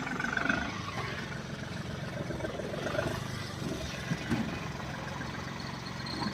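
A vehicle engine idling steadily, with a couple of faint knocks about four seconds in.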